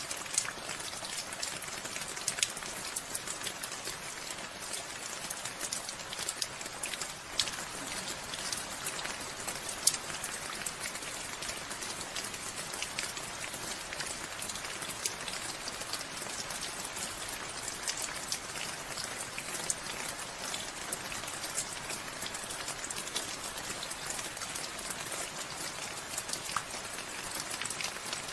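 Steady rain falling, with many separate drops ticking on a surface and now and then a louder single drop.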